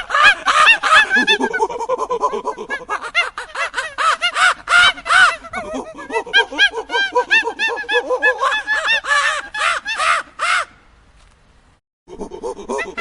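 Many birds calling over one another in a dense chorus of short, arched calls. It breaks off abruptly for about a second near the end, then resumes.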